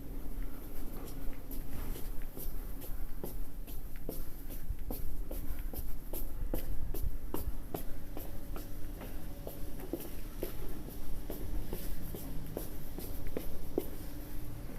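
A run of irregular light clicks and taps over a faint steady hum.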